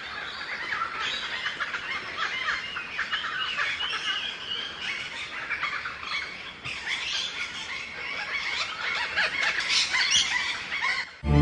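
Many birds chirping and trilling at once, a dense, busy chorus of short, rapid calls.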